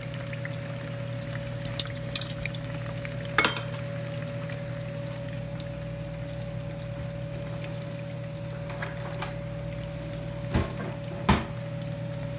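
Cubes of tofu sizzling in hot oil in a frying pan, a steady hiss over a constant hum. A few sharp clinks and knocks, the loudest about three and a half seconds in and two more near the end.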